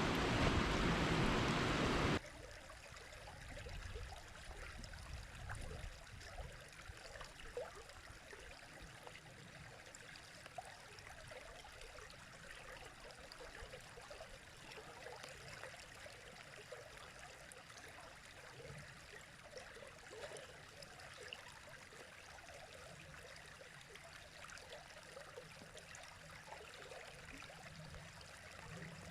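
River water flowing: a loud, steady rush for about the first two seconds cuts off abruptly to a quieter stream babbling and trickling over stones.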